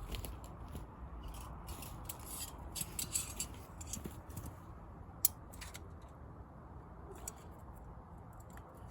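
Wood fire crackling with irregular snaps and pops, one sharper pop a little past halfway.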